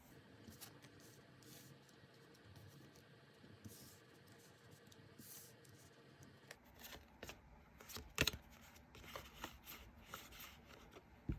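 Tarot cards being handled: faint rustling and sliding with scattered light taps, busier in the second half, with a sharper tap about eight seconds in.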